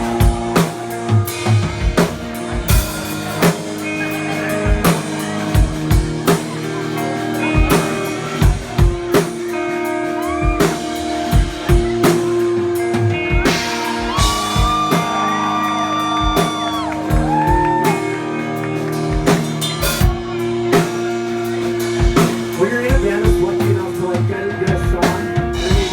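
Live rock band playing loud: regular drum kit hits over sustained electric guitar.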